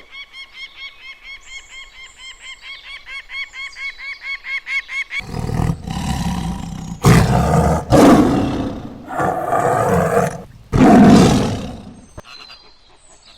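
A fast run of short, repeated high-pitched calls that grows louder, then a large animal roaring in a series of loud, rough roars.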